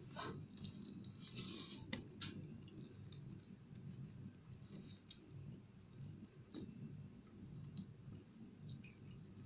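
Faint chewing of fried fish, with scattered small clicks as crispy pieces and bones are picked apart by hand, over a low steady hum.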